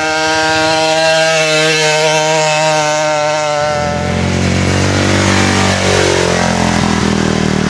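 A motorcycle running at speed with a steady high-pitched note that slowly falls. About three and a half seconds in it gives way to a lower, rougher vehicle sound whose pitch dips and comes back up near the end.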